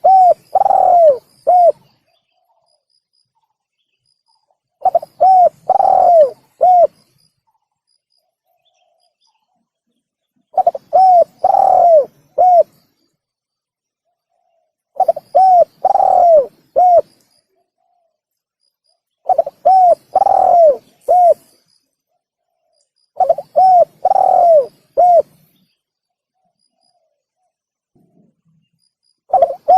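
Spotted dove (tekukur) cooing, played as a lure call: a phrase of about four coos, two of them longer and drawn out, repeated about every four to five seconds, some seven times, with silence between phrases.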